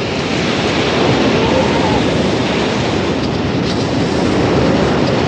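Wind and surf on a beach: a loud, steady rush of wind and breaking waves, with wind buffeting the microphone.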